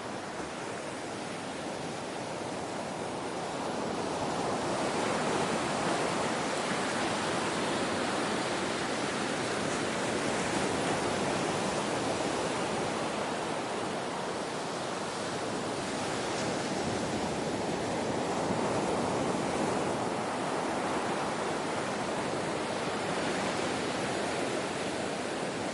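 Ocean surf: a steady rush of waves washing in, swelling and easing slowly over several seconds at a time.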